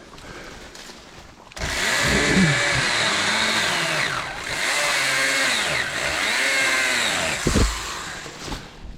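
Stihl small battery-powered handheld saw cutting brush. Its high-pitched motor whine starts about one and a half seconds in, and the pitch sags and picks up again several times as the blade bites into branches. It stops near the end, with a short thump just before.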